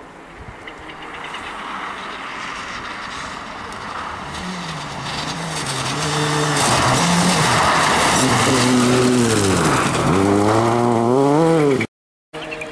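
Rally car approaching at speed, growing steadily louder, its engine note rising and falling repeatedly as the throttle is worked, over a hiss of tyres on the loose surface. The sound cuts off abruptly near the end.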